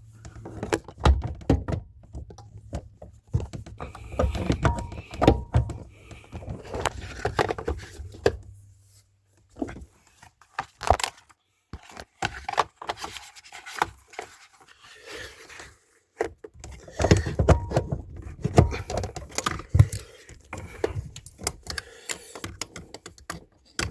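Irregular clicks, knocks and metallic rattles of hands and tools working the electric power steering motor loose from a 2013 Hyundai Azera's steering column, with a low steady hum that stops about a third of the way through.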